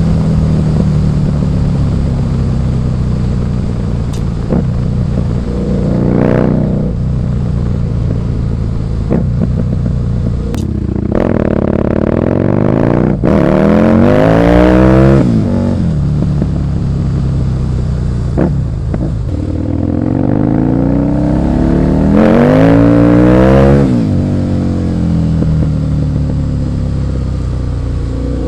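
Husqvarna Nuda 900R parallel-twin engine running under way. It gives a brief throttle rise about six seconds in, then two hard accelerations in the middle and near the end, climbing in pitch through the revs before dropping back.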